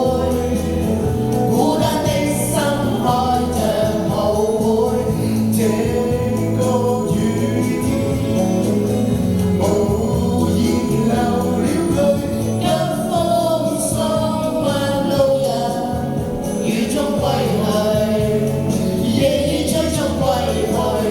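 A pop ballad cover: voices singing over a recorded backing track.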